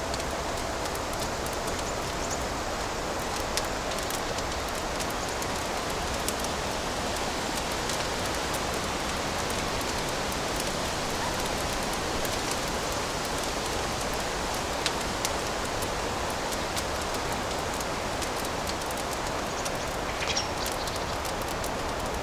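Fireplace fire crackling: a steady hiss with many small crackles and a few louder pops.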